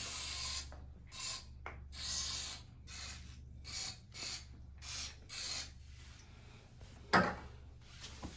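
About ten short, rasping scraping strokes of a hand tool digging at a stuck mixer-tap cartridge, with a sharp knock about seven seconds in.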